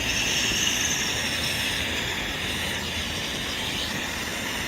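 Ground fountain firework spraying sparks with a steady hiss, a higher whistling edge fading out after about a second and a half.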